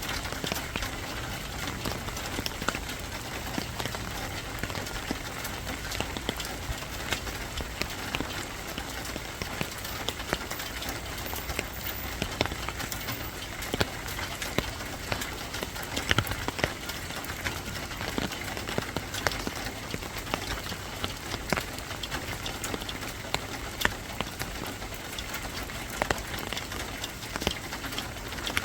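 Steady rain falling: an even hiss with many scattered sharp ticks of drops striking a surface.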